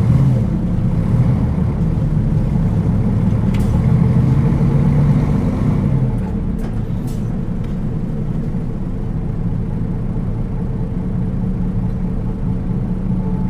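Nissan Diesel city bus's diesel engine heard from inside the cabin, its pitch rising for a few seconds, then dropping about six seconds in to a steady lower drone. A couple of sharp clicks sound over it.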